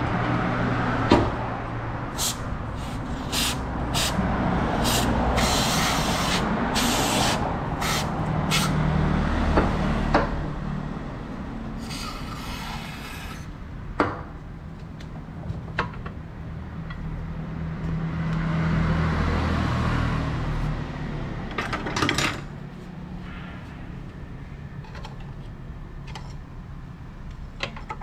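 Workshop sounds: a low steady hum under a run of short hisses, with scattered knocks and clicks.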